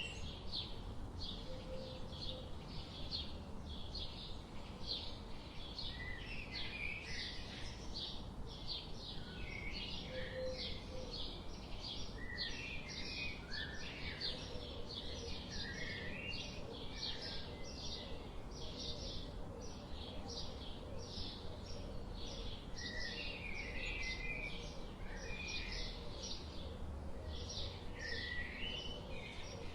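Forest birds chirping and calling: a steady run of short high chirps, about two a second, with other birds' calls breaking in now and then, over a low steady rumble.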